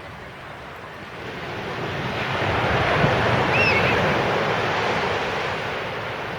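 Sea waves breaking on a beach: a wash of surf that builds over a couple of seconds, peaks about three seconds in, then slowly ebbs.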